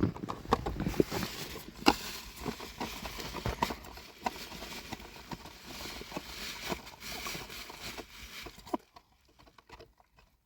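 Livestock hooves clattering irregularly on hard ground, many quick knocks, thinning out and fading away near the end.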